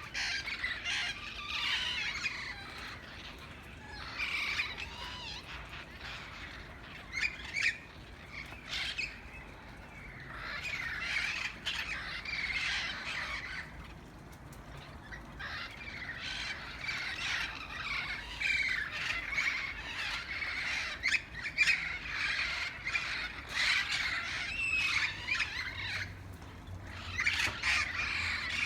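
A flock of green, red-headed parrots squawking and chattering continuously, many calls overlapping, with short lulls and some louder harsh squawks scattered throughout.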